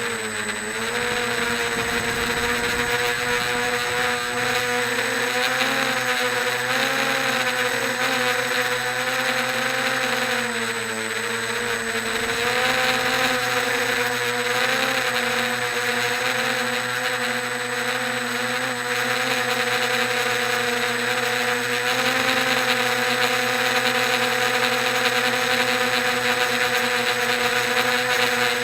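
Quadcopter's electric motors and propellers whining steadily in flight, the pitch wavering with throttle and dipping briefly near the start and again about ten seconds in.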